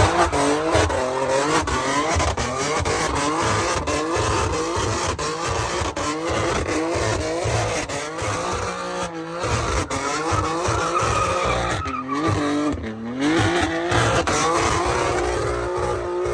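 Car tyres squealing under power in long, wavering screeches that keep bending up and down in pitch, over the rumble of the car's engine.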